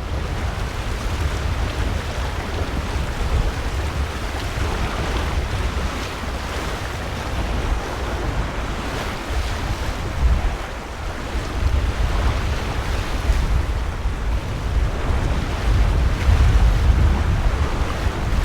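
Lake Michigan waves washing against the shore, as steady noise, with wind buffeting the microphone in uneven low gusts.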